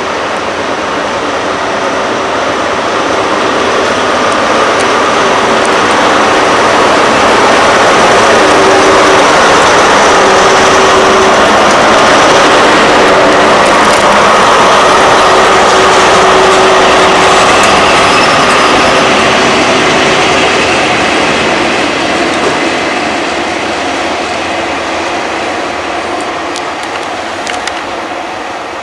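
A train passing close by: its running noise builds over several seconds to a loud peak in the middle, then gradually fades, with a few sharp clicks near the end.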